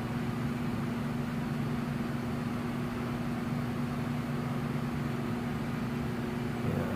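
Steady background machine hum with a constant low tone, unchanging throughout.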